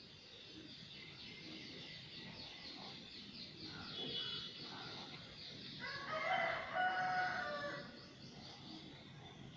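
A rooster crowing once, about six seconds in, over small birds chirping rapidly.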